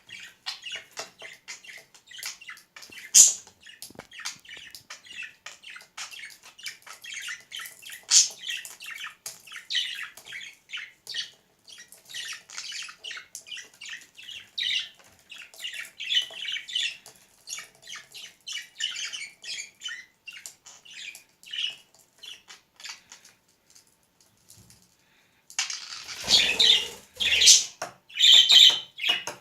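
Budgerigar warbling and chattering, a long run of quick chirps and clicks. It falls quiet for a couple of seconds, then a louder burst of rustling noise with a few sharp calls comes near the end.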